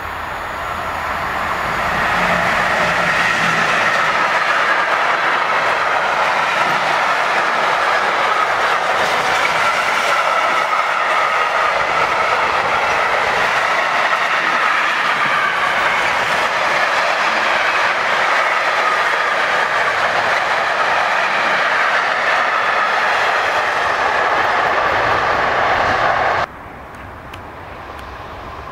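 A long freight train of container and tank wagons rolling past at speed, its steel wheels rumbling and clattering steadily over the rails with a ringing hum. Near the end the sound drops abruptly to a much quieter, slowly rising rail noise.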